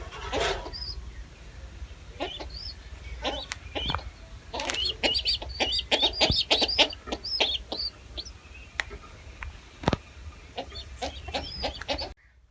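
Birds calling: a flurry of short, high, wavering chirps and squawks mixed with lower clucking calls and a few knocks, busiest in the middle and cutting off abruptly near the end.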